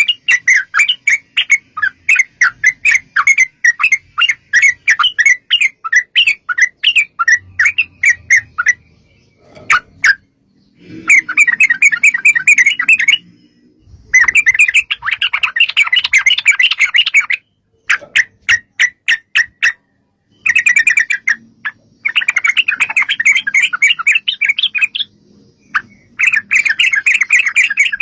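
Yellow-vented bulbuls singing: a quick run of separate chirps for the first nine seconds or so, then several dense bursts of rapid chattering, each one to three seconds long, with short pauses between.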